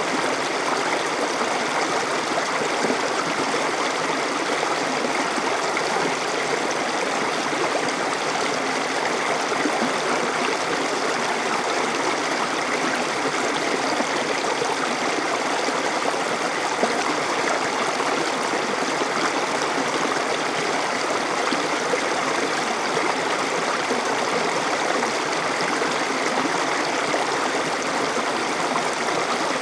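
A stream flowing and babbling over rocks, a steady rushing and gurgling of water that never lets up.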